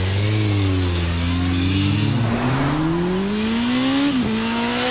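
Motorcycle engine accelerating, its pitch climbing steadily, then dropping sharply at a gear change about four seconds in.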